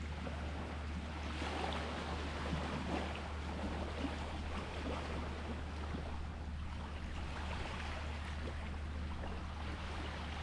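Sea water washing in a steady hiss that swells slightly now and then, over a constant low rumble.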